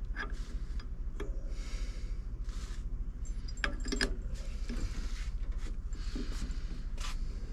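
Brake parts and tools being handled on a workbench: scattered clicks and taps with short rubbing, scraping noises over a steady low hum.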